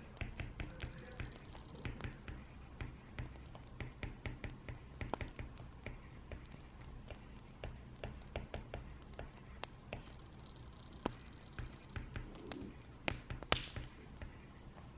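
Wood fire crackling: irregular sharp pops and snaps, several a second, over a low steady rumble, with a brief hiss near the end.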